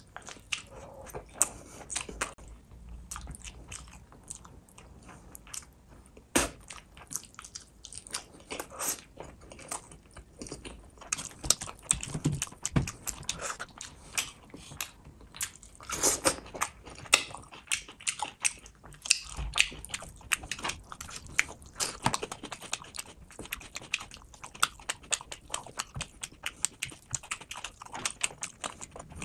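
Close-up mouth sounds of a person eating rice and fish by hand: chewing, biting and lip-smacking, with a steady run of sharp, wet clicks.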